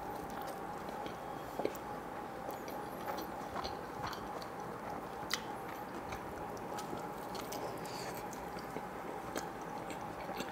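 Close-miked biting and chewing of a pizza slice: soft wet mouth sounds with small clicks now and then. Underneath runs a steady electric fan hum with a faint constant tone.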